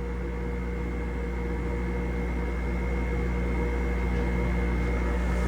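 Heat pump cooling compressor of a weatherized equipment enclosure running, a steady mechanical hum with a faint high whine, slowly getting louder. The cooling circuit is on, tripped by hot air blown into the intake.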